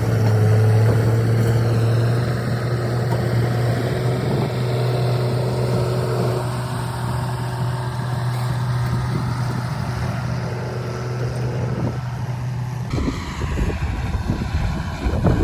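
Heavy harvest machinery running with a steady low drone. About thirteen seconds in, the sound changes abruptly to a rougher, noisier rumble.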